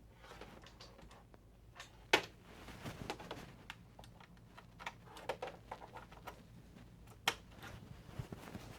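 Scattered light plastic clicks and taps from handling a PS5 controller and plugging its USB cable into the console, with two sharper clicks about two seconds in and about seven seconds in.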